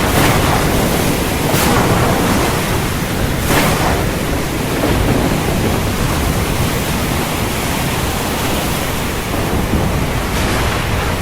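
Heavy storm rain pouring down, a loud dense steady hiss with a few brief louder surges.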